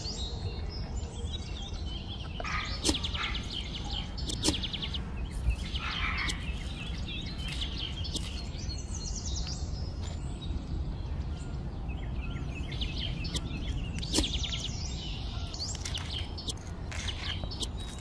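Small birds chirping and twittering over a steady low rumble, with a few sharp taps as the loudest moments, about three and four and a half seconds in and again near fourteen seconds.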